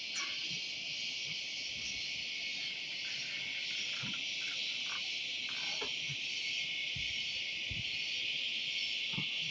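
A steady, dense insect chorus: a continuous high, shrill buzzing hiss with no breaks, with a few faint soft thumps here and there.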